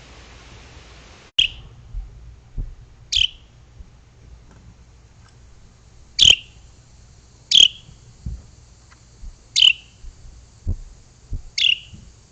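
A bird calling six times, each a short sharp call a second or two apart, with soft low knocks in between.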